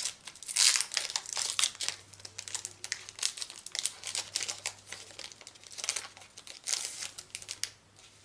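Magic: The Gathering booster pack's foil wrapper being torn open and crinkled in the hands, in irregular bursts, loudest about a second in and again near the end.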